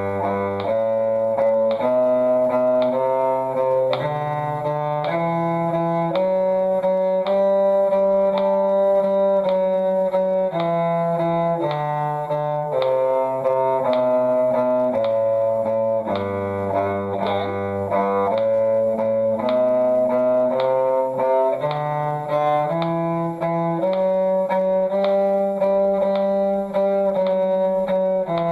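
Bowed string instruments playing a slow one-octave G major scale up and down, each pitch held for about a second and split into two eighth notes in one bow and one in the other.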